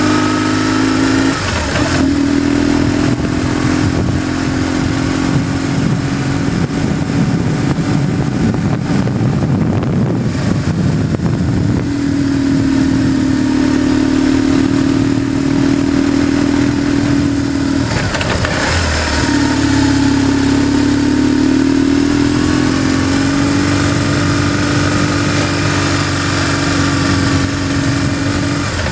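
BMW GS motorcycle engine running under way, heard from on board. Its steady note breaks and changes pitch about a second and a half in and again around eighteen seconds, and a rougher, noisier stretch fills the first ten seconds or so.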